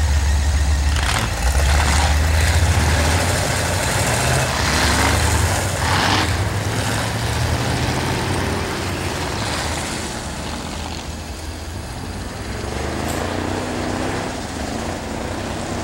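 Several rear-wheel-drive ice race cars' engines idling and revving together. A heavy low rumble fills the first three seconds, then eases, and engine notes rise and fall toward the end.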